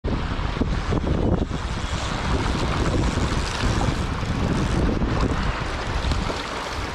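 Wind buffeting the microphone over rushing river water, a steady noise with a heavy low rumble.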